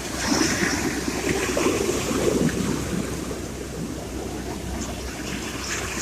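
Sea waves washing on a shore: a surge swells in the first couple of seconds and ebbs away, with the next one building near the end.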